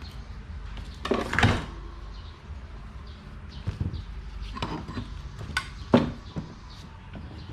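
Scattered clicks and knocks of parts and tools being handled, with a louder scraping rattle about a second in and a sharp knock about six seconds in, over a low steady hum.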